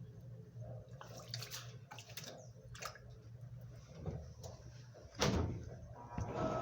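Agitator washing machines churning a load of blankets in water: irregular sloshing and splashing over a steady low motor hum, with a louder splash about five seconds in.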